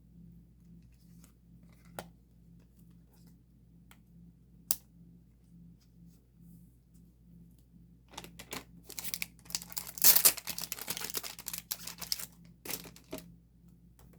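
Two small sharp clicks, then several seconds of crinkling and tearing-like rustling of thin plastic packaging being handled, loudest about two thirds of the way in.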